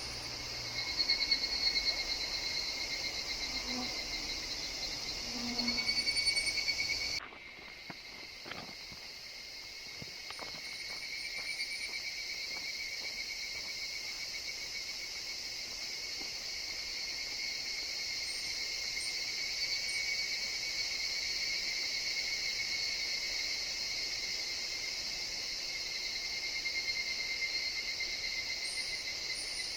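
A chorus of higurashi evening cicadas calling in a forest: a steady, finely pulsing high drone, with short high chirps now and then. A low rumble underneath cuts off suddenly about seven seconds in.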